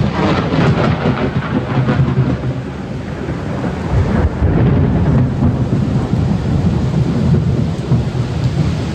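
Thunder rumbling over steady rain after a lightning strike, easing slightly and then swelling again about four seconds in.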